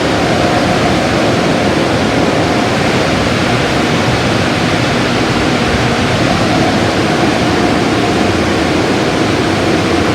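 Car wash equipment running with a steady, loud rushing noise and a faint steady hum underneath.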